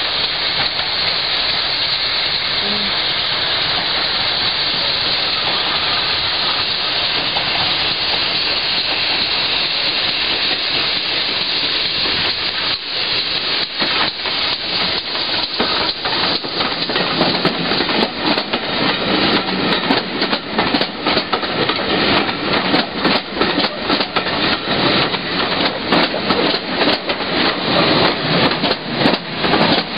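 A steady hiss, then, from about twelve seconds in, a train's wheels clicking over the rail joints, the clicks coming closer together and louder as the carriages run past.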